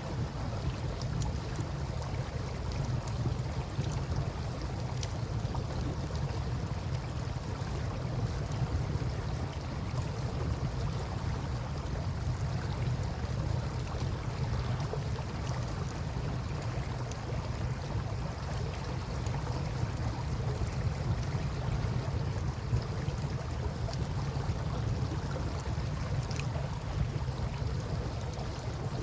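Campfire crackling with scattered sharp pops over the steady wash of river water, with a constant low rumble underneath.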